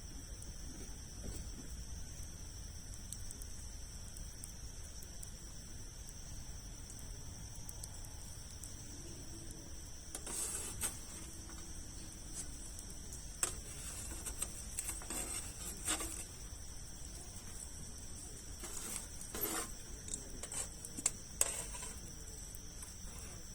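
Wood campfire of large logs burning, with scattered crackles and sharp pops, mostly in the second half. A steady high-pitched tone runs underneath.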